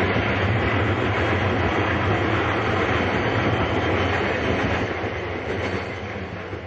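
Electric freight train's container wagons rolling past on the rails: a steady, loud rumble of wheels on track that eases off as the last wagons pass, then cuts off suddenly at the end.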